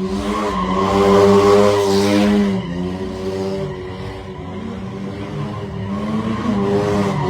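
Car engine revving hard, held high for stretches, with its pitch sliding down and back up about the middle.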